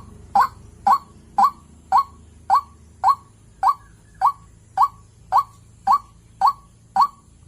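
White-breasted waterhen calling: a steady, even series of short, sharp 'ruak' notes, nearly two a second, about thirteen in all.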